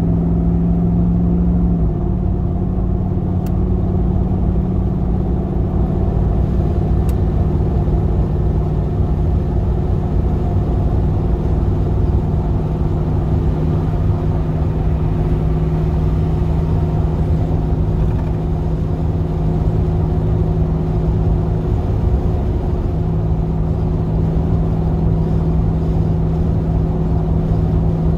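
GMC Vandura / Chevy G20 van's V8 engine running under way at a steady cruise, a constant low drone. Its pitch drops slightly about two seconds in, then holds steady.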